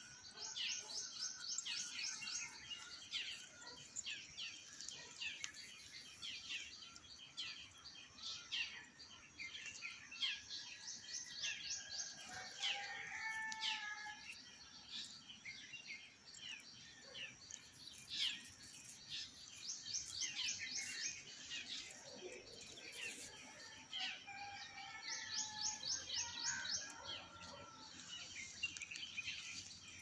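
Several songbirds chirping and calling together, with a quick high trill that comes back four times, every several seconds.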